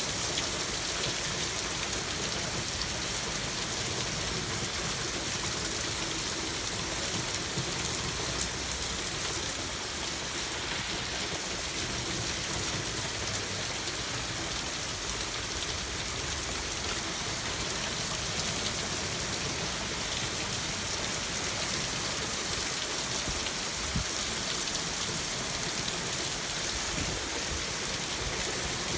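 Steady thunderstorm downpour, with water spilling from overflowing gutters. It holds an even, unbroken hiss throughout.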